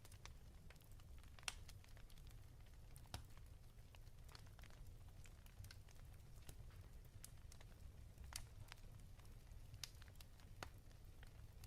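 Faint wood fire crackling in a fireplace: irregular sharp pops and snaps over a low, steady rumble.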